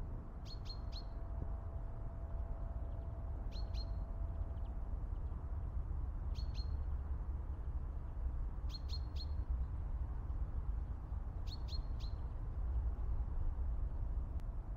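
A bird calling again and again, short high chirps in groups of two or three about every three seconds, over a steady low rumble.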